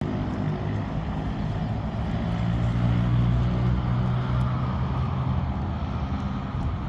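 A motor vehicle's engine running with a low, steady hum that swells a little about three seconds in and then eases off.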